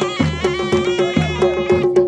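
Traditional Balti folk dance music: a wind-instrument melody over a held drone note, with a deep drum beat about once a second and lighter strokes between.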